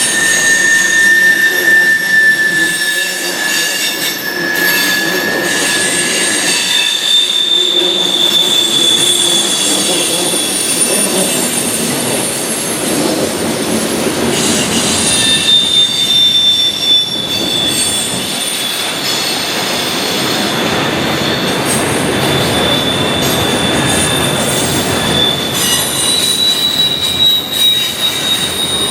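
Freight train cars rolling past with their wheels squealing: long, high, steady squeals that come and go and shift slightly in pitch, over the continuous rolling noise of the train.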